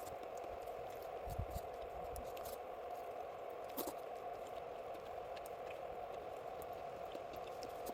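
Wood campfire crackling, with scattered sharp pops and ticks over a steady hiss; one louder pop comes about four seconds in.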